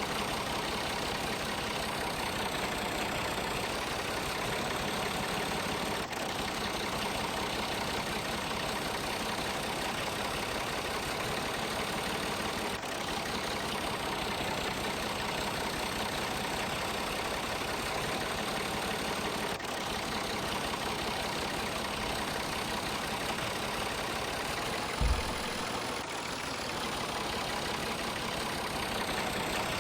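A tractor engine running steadily at idle, the sound even throughout with faint breaks about every seven seconds. There is a brief low thump about 25 seconds in.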